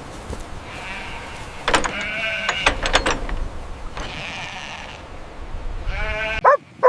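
Goats bleating, several separate calls about one to two seconds apart, with a few sharp knocks between them.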